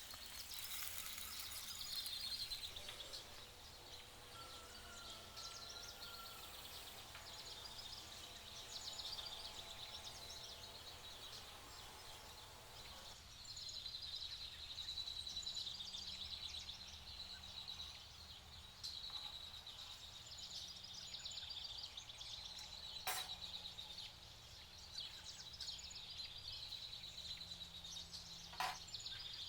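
Quiet outdoor nature ambience with a steady high-pitched chirring and a fine rapid pulse. Two sharp clicks come in the last third, about five seconds apart.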